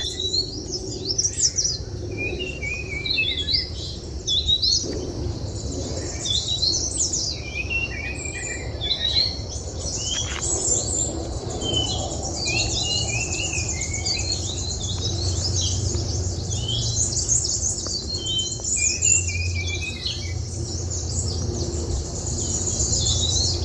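Several wild birds chirping and calling in forest: many short, quick chirps and trills overlapping one another, over a steady high hiss.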